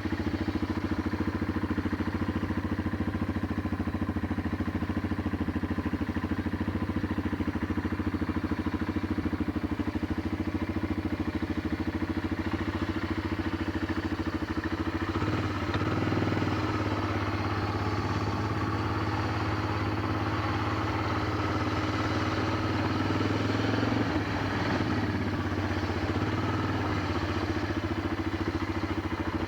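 Four-wheeler (ATV) engine running steadily as it is ridden, its pitch shifting about halfway through and again near the end as the speed changes.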